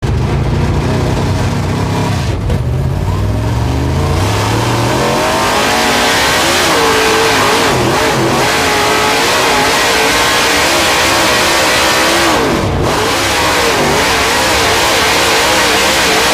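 Dirt late model race car's V8 at hard throttle on a qualifying lap. The engine pitch climbs steadily for the first few seconds, then wavers up and down as the throttle is worked through the turns. There are brief lifts about two and a half seconds in and again near twelve and a half seconds.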